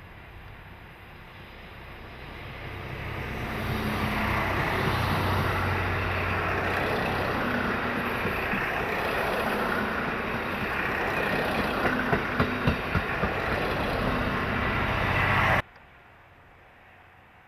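A train passing close by. Its running noise builds over the first few seconds and stays loud, with a quick run of wheel clicks a little past the middle, then cuts off abruptly near the end.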